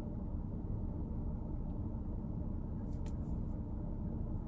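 Steady low rumble of a vehicle idling, heard from inside the cab, with a couple of faint clicks about three seconds in.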